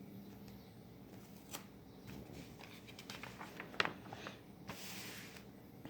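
Paper pages of a catalog being handled and turned: a few light clicks and crackles, then a short paper rustle near the end.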